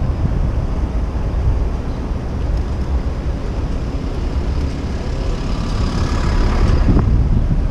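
Wind buffeting a bike-mounted action camera's microphone over city street traffic. A faint high whine sounds between about five and seven seconds in, and a single click comes near the end.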